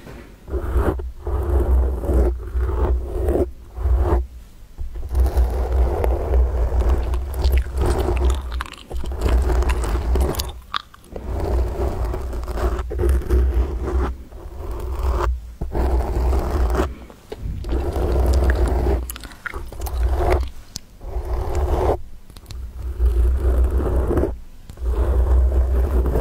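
Fingers grabbing and scratching directly on a microphone, in bouts of a few seconds with brief pauses between them: a deep handling rumble under scratchy rasping.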